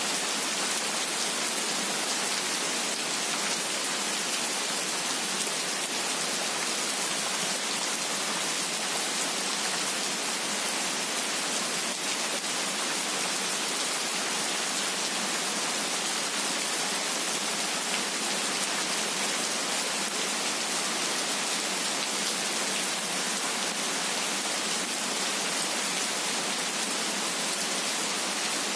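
Steady heavy rain falling: an even, unbroken hiss with no thunder.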